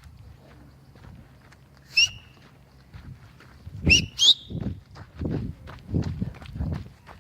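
Footsteps on a forest trail, a steady tread of about three steps every two seconds in the second half, with three short, loud high whistles: one about two seconds in and a quick pair about two seconds later.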